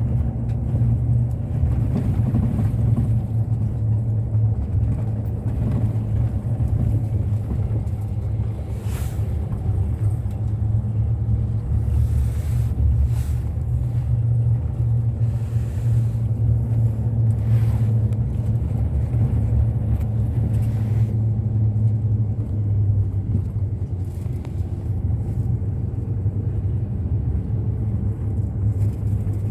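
Bus running on the road, heard from on board: a steady low engine and road rumble, with a few brief hisses partway through.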